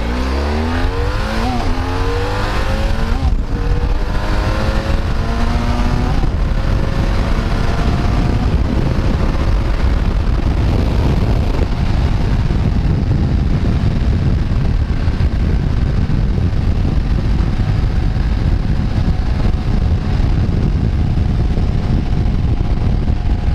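Motorcycle engine pulling away and accelerating through the gears: the pitch rises and drops back with three shifts in the first several seconds, then settles into a steady cruise under heavy wind noise on the microphone.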